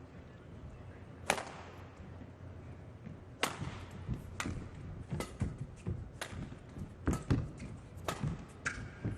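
Badminton rally: rackets striking the shuttlecock, one sharp hit about a second in, then a quick exchange of hits every half second or so from about three and a half seconds in, mixed with the thuds of players' footwork on the court.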